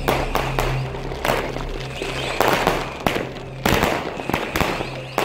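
Weco Wildstorm 64-shot consumer firework battery firing, a rapid run of launch thumps and bursting bangs at roughly two shots a second.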